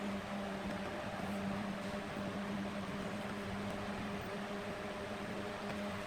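Wood lathe running steadily: an even motor hum over a constant hiss.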